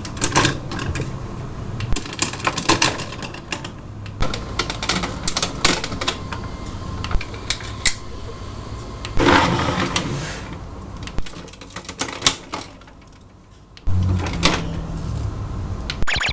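Irregular sharp clicks and clacks of hard plastic toy parts being handled and moved, over a steady low hum.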